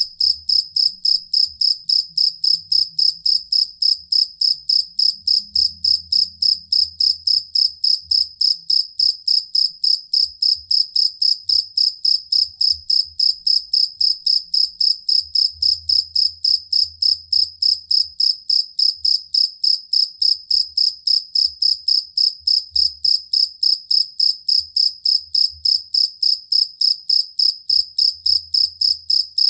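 A cricket chirping loudly and steadily, a clear high note repeated evenly about three times a second without a break.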